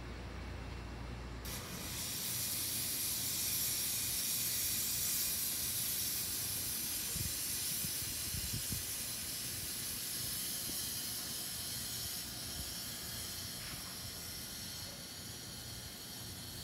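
Sanyo Electric Railway electric train running into the station: a steady high hiss from the passing train starts abruptly about a second and a half in and slowly fades.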